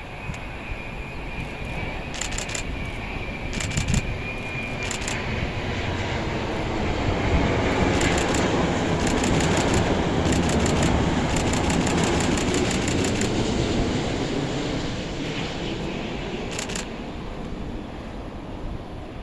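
Boeing 787-9 jet airliner passing on its landing approach, the engine noise swelling to a peak about halfway through and then fading, with a thin high whine early on. A camera shutter clicks in short bursts over it, with a long rapid burst around the loudest part.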